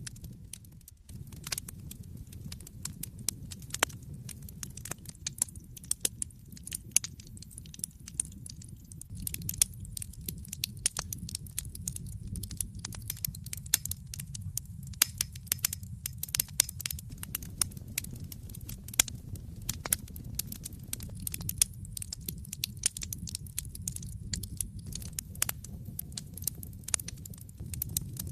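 Wood fire in a fireplace crackling: frequent sharp pops and snaps of irregular strength over a steady low rumble of the burning logs.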